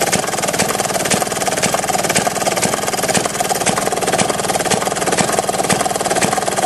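Maytag Model 31 single-cylinder two-stroke gas engine idling steadily as it warms up just after starting, a fast, even firing beat.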